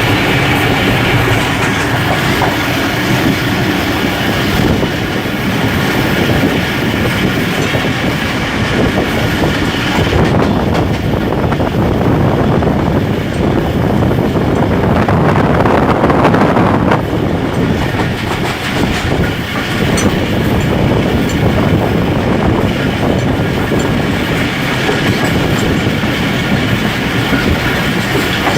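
Passenger train running along the track: a steady rumble and clatter of coach wheels on the rails. The sound swells for several seconds in the middle and drops back abruptly about seventeen seconds in.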